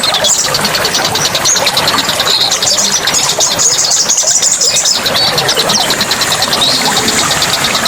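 A chorus of songbirds chirping and trilling rapidly and continuously at a high pitch, over a steady rushing background like running water.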